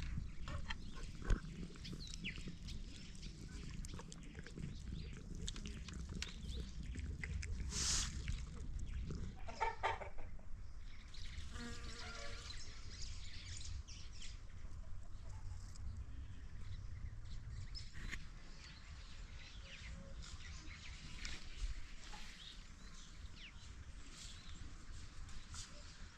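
Birds chirping and calling throughout over a low rumble. A sharp knock comes about a second in, and a louder drawn-out animal call with stacked tones comes about ten to twelve seconds in.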